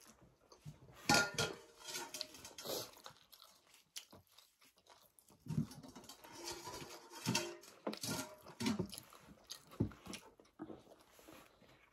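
Chewing: people eating chapati and buffalo meat curry by hand, in short irregular mouth sounds of uneven loudness.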